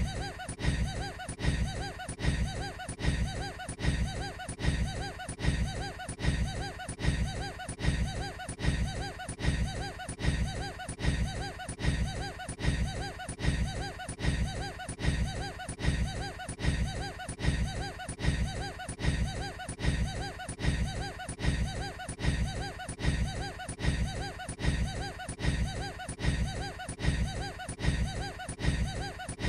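A man's short, odd laugh looped over and over, the same clip repeating about once a second.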